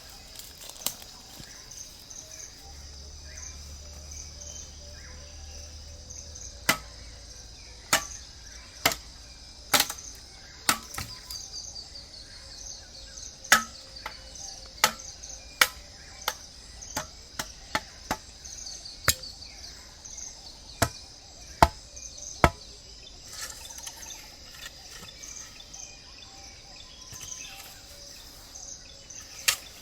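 A knife chopping bamboo: sharp single strikes, irregular and about one a second through the middle, then stopping. Under them runs a steady high trill of rainforest insects.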